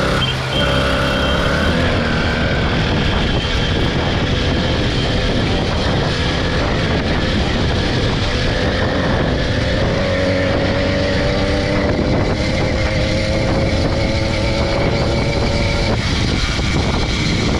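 80cc two-stroke motorized-bicycle engine running while riding, a steady buzz whose pitch climbs slowly through the middle of the stretch.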